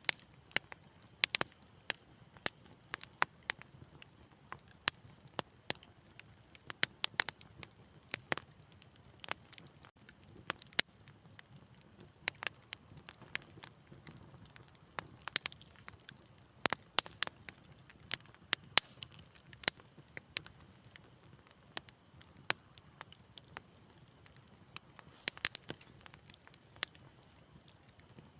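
Wood fire in a fireplace crackling: irregular sharp pops and snaps, several a second, over a faint steady hiss.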